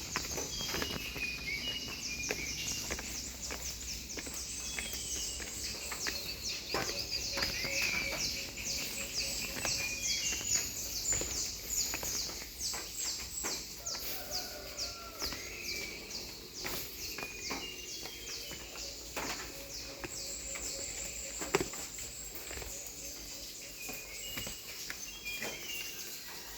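Outdoor nature ambience: birds chirp over a steady high-pitched chorus of rapid pulsing, with scattered clicks.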